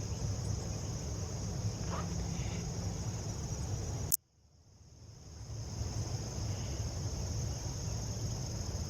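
Steady high trilling chorus of crickets over a low rumble. About four seconds in, it cuts out with a click for most of a second, then fades back in.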